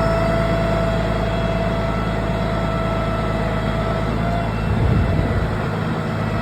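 Heavy vehicle engine running steadily with a steady whine above it; a low rumble swells briefly about five seconds in.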